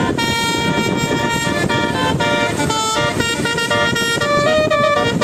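Loud horn-like tones sounding a quick run of changing notes, like a tune, over a dense low rumble.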